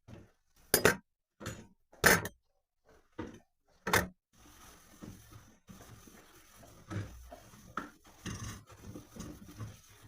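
Three sharp knocks a second or two apart, followed by softer, busier clattering and handling noises in a small room.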